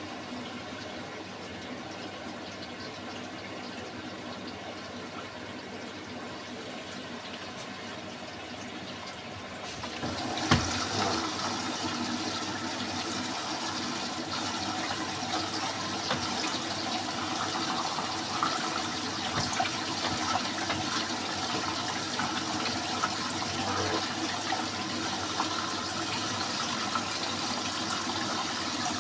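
Beko WMY81283LMB2 washing machine filling with water at the start of a hand wash cycle: a steady rush of incoming water. About ten seconds in there is a click, and the flow becomes louder and brighter.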